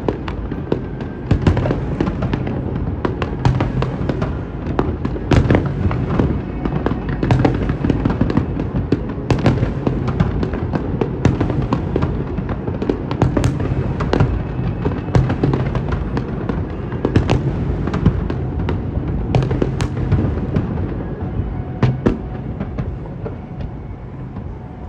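Fireworks display: aerial shells bursting in a dense, continuous barrage, sharp bangs coming every fraction of a second over a rumbling background, thinning a little near the end.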